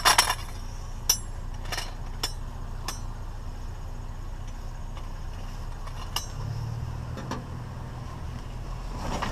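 Sharp metallic clinks and knocks from small brass or pot-metal fittings being pulled off and handled: five in the first three seconds and two more a few seconds later. A steady low hum runs underneath.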